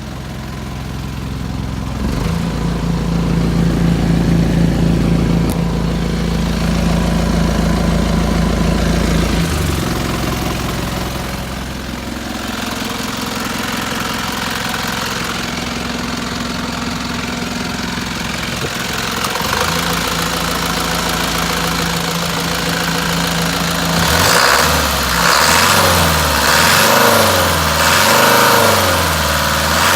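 Mitsubishi Canter truck engine running at steady speeds that step up and down a few times, then revved up and down several times near the end.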